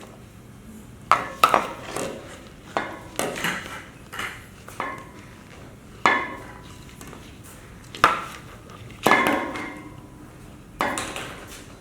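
Toy bowling pins and ball knocked about by a cat: sharp clattering knocks at irregular intervals of a second or two, each trailing off in a short rattle.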